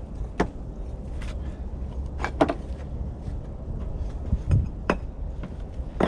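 Bricks being laid and set in place: several separate sharp knocks and clinks of brick against brick and masonry tools, the loudest about two and a half seconds in.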